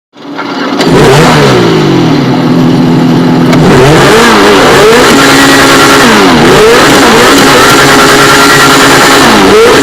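Lamborghini Aventador's V12 engine being revved, very loud, its pitch climbing and dropping again several times between steady stretches.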